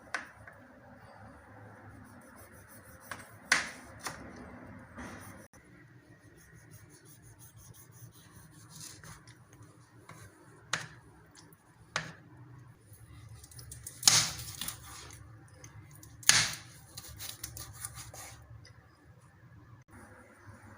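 Kitchen knife slicing a tomato: a handful of sharp knocks as the blade comes down, spaced a few seconds apart, the loudest two in the second half.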